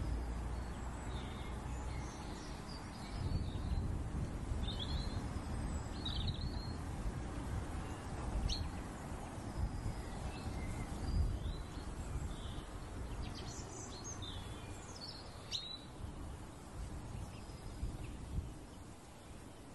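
Birds chirping, with short high calls now and then, over a steady low background noise.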